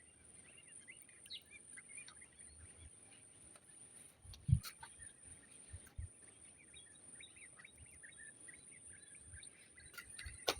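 Faint birds chirping, with many short calls and a steady thin high-pitched whine behind them. A single low thump stands out about four and a half seconds in, with a softer one near six seconds.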